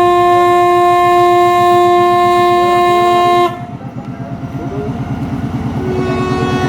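Train horn sounding one long, steady blast of about three and a half seconds as the train departs. After it, the locomotive's engine throbs in a steady rhythm and grows louder as the train pulls away, and a quieter horn note comes back near the end.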